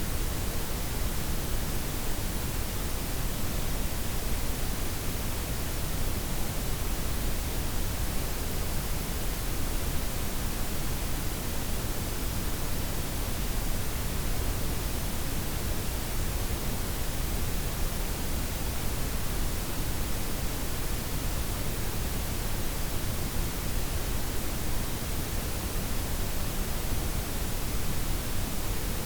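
Synthetic layered white, pink and brown noise, a steady even hiss with a deep low rumble beneath it and no changes or events.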